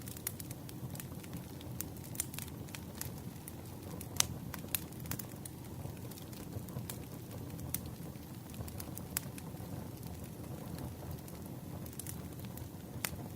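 Wood campfire burning: a steady low rumble of flames with sharp, irregular crackles and pops from the burning wood.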